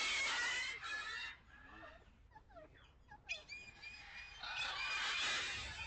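Domestic poultry calling in two loud, rough outbursts, one at the start and another about four and a half seconds in, with faint short bird chirps between them.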